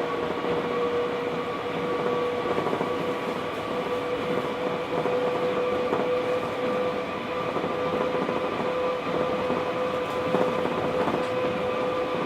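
Osaka Monorail 1000 series train cruising at a steady speed, heard from inside the car: a continuous running rumble on rubber tyres, with a steady whine holding one pitch throughout.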